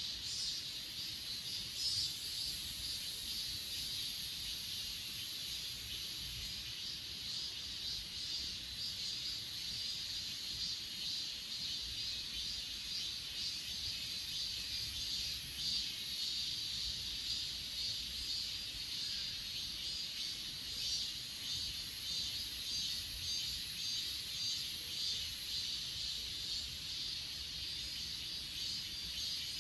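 Chorus of grass insects singing steadily in several high-pitched layers of fine, rapid pulses, the highest layer louder for a few seconds near the start.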